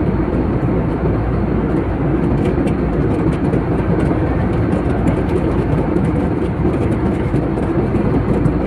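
Airliner cabin noise: a steady, loud rumble of engines and rushing air heard from inside the passenger cabin, with faint scattered ticks.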